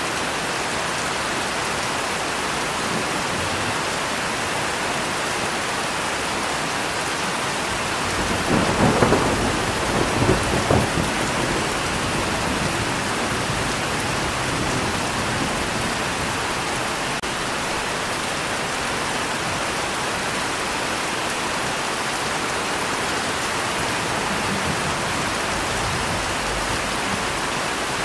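Steady heavy rain, with a crack and rolling rumble of thunder about a third of the way in that pulses for two or three seconds before fading back into the rain.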